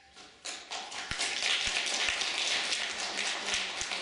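Audience applauding, starting about half a second in and building to full strength within a second.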